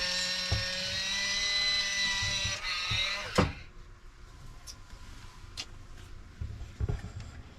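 Small electric motor running with a steady whine, then cutting off with a click about three and a half seconds in; a few faint clicks follow.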